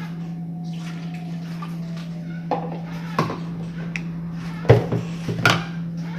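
Kitchen dishes and utensils knocking and clinking, four or five separate sharp knocks with the loudest a little before the end, over a steady low hum.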